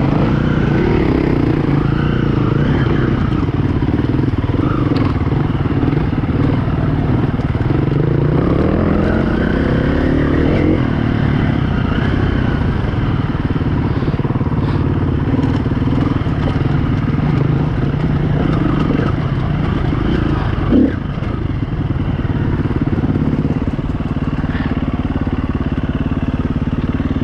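KTM 350 EXC-F four-stroke single-cylinder dirt bike engine running under riding on rough ground, the revs rising and falling with the throttle and climbing steadily about eight to eleven seconds in. A single knock, such as the bike hitting a rock, about twenty seconds in.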